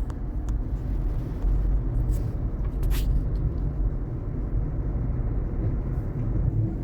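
Steady low road rumble inside the cabin of a moving Jaguar I-Pace electric car, with no engine note, and a few faint clicks, the sharpest about three seconds in.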